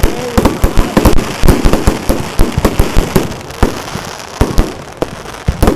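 Fireworks going off: many sharp bangs at irregular spacing, several a second, over a continuous crackle.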